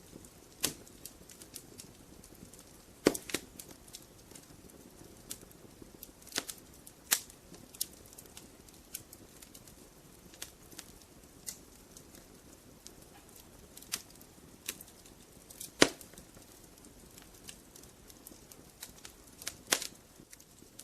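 Logs burning in a fireplace, crackling: irregular sharp pops and snaps, a few of them much louder, over a soft low hiss of the fire.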